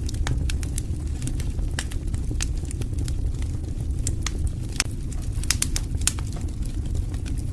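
Wood fire burning: a steady low rumble of flames with frequent, irregular sharp crackles and pops from the burning logs, thickest a little past halfway.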